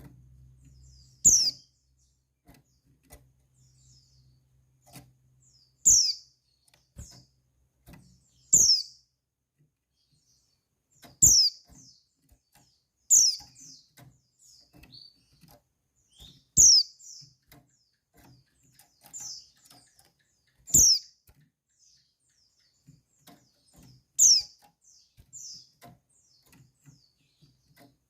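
Female white-eye (pleci) calling: about ten short, high notes, each sliding quickly downward, spaced irregularly a second or more apart. It is a female's call that stirs male white-eyes into breeding excitement and answering song.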